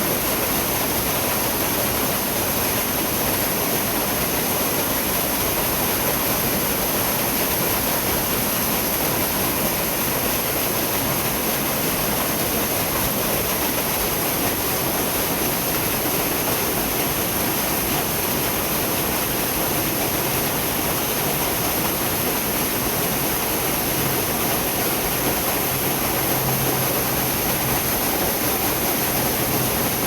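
Gorge river water rushing steadily over rocks, a constant full sound of fast-flowing water with no pauses.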